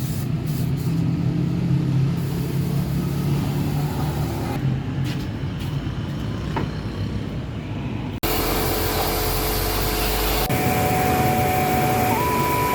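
Motorbike-wash pressure washer running: a steady low motor hum with the hiss of the spray. After about eight seconds it cuts off abruptly, and a louder even hiss follows, with held tones that step up in pitch.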